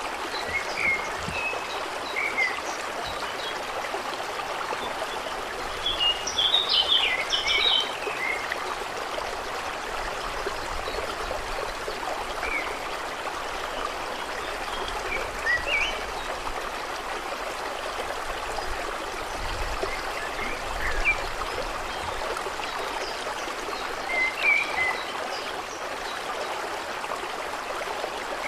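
Steady rush of flowing water with scattered short bird chirps over it, the chirping busiest for a couple of seconds about six seconds in.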